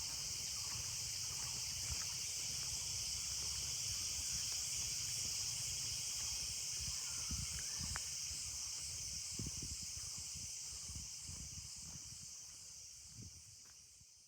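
Steady, high-pitched chorus of insects in a forest, fading out near the end.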